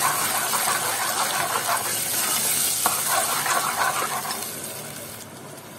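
Onion-and-tomato paste sizzling and crackling in hot oil in an aluminium pot while being stirred with a steel ladle, with light scrapes and clicks of the ladle against the pot; the sizzle grows quieter near the end.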